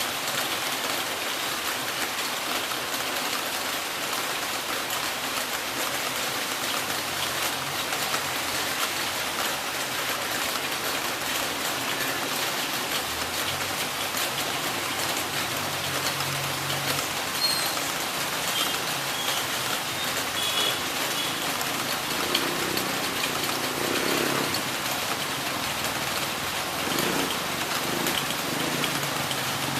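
Heavy rain falling steadily, a dense even hiss of drops on surfaces. In the second half a faint low rumbling comes and goes beneath it.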